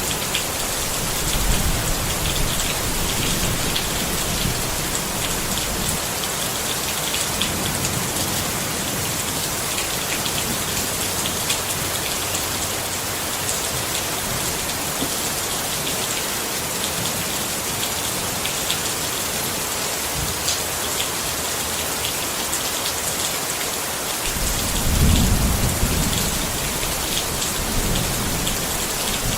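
Steady rain drumming on a tent, with a low rumble of thunder in the first few seconds and a stronger one near the end.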